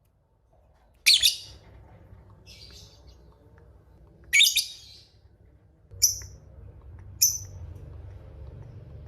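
Lovebird calling in separate high-pitched bursts: a loud call about a second in and another near the middle, with a faint one between them and two short calls later. A faint low hum runs underneath.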